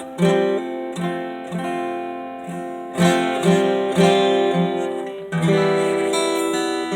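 1967 Gibson Gospel acoustic guitar being strummed and played, chords struck and left to ring, newly repaired and set up with low string action.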